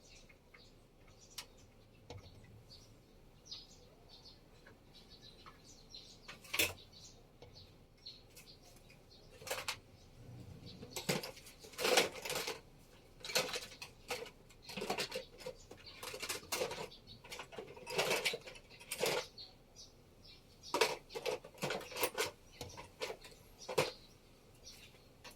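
Irregular clattering and clinking of small hard objects being handled, a few isolated clicks at first, then a busy run of clatters from about eleven seconds in.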